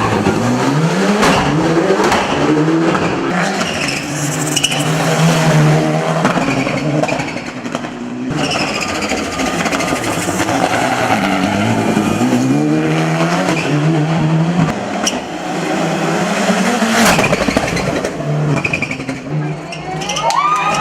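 Turbocharged 2.0-litre four-cylinder engine of a Mitsubishi Lancer Evolution VI hill-climb car accelerating hard. Its pitch climbs through each gear and drops back at every shift, and a few sharp cracks come through.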